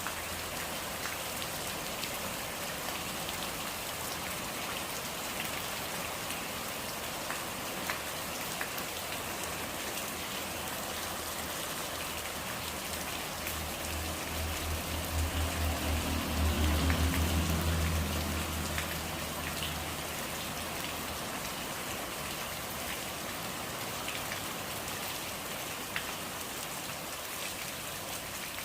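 Steady rain falling on surfaces, with scattered sharp drop ticks. Partway through, a low rumble swells up and fades away again over several seconds.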